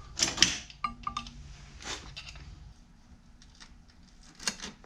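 Scattered clicks and knocks of small metal parts and tools being handled while fitting a scooter's rear brake, with a short metallic ring about a second in.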